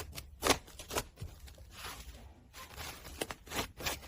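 Slime being played with by hand: irregular sticky clicks and pops, with a short soft crackling stretch about two seconds in.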